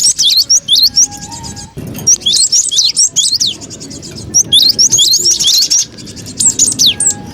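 Gelatik batu (cinereous tit) calling noisily, the busy chatter used as a bird-trapping lure. Rapid high chirps come in bursts of about a second, with short pauses between bursts.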